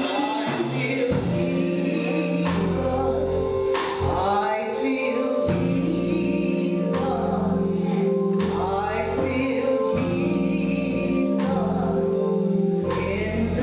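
Gospel choir singing with instrumental accompaniment, long held chords over a steady bass.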